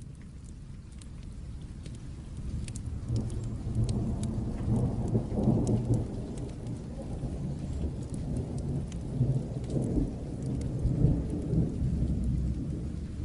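Long rolling thunder rumble that swells about three seconds in and rolls on until near the end, over steady rain, with scattered sharp crackles of a wood fire.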